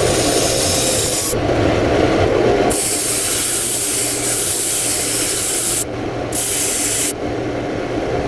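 A wooden ring being rubbed flat against sandpaper, a continuous rasping sanding noise in long strokes of one to three seconds that change in pitch as each stroke turns.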